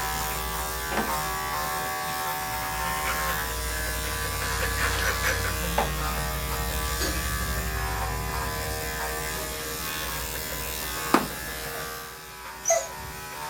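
Electric dog grooming clippers running with a steady buzzing hum and a few sharp clicks. The hum drops away about twelve seconds in.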